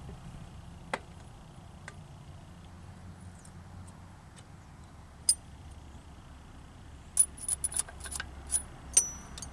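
Metal-on-metal clinks as tools and small steel parts are handled: a few single clicks, then a quick run of ringing clinks near the end.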